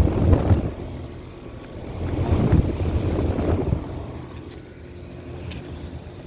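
Rooftop air-conditioner condensing unit running: a steady low hum from its compressor and fan. Two louder rushing stretches come near the start and again from about two to nearly four seconds in.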